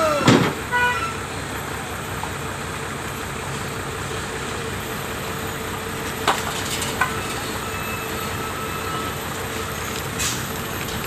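Heavy truck engines running steadily, with a steady mid-pitched tone through most of it. A brief falling tone comes near the start, and a few sharp clicks follow later.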